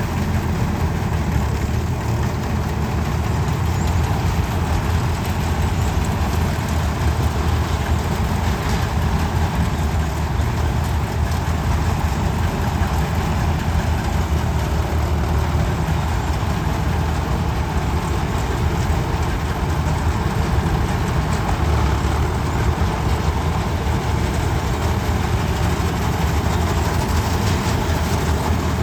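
Tractor engine running at a steady speed, a constant low hum without changes in pitch.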